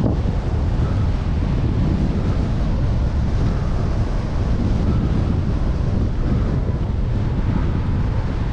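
Strong wind buffeting the microphone of a cyclist's camera: a steady, heavy low rumble.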